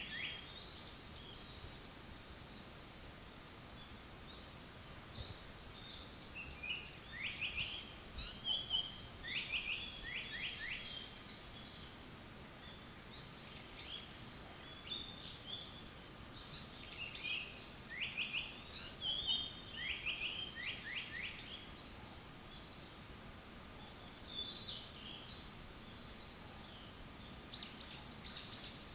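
Japanese paradise flycatcher singing: phrases of high whistled notes, each with a quick run of sharply falling notes, repeated every few seconds over a steady background hiss.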